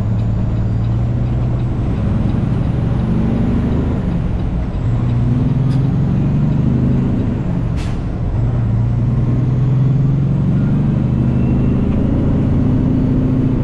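Diesel engine of a semi truck pulling a trailer, running under load and rising in pitch twice, with a dip between as it shifts up through the gears.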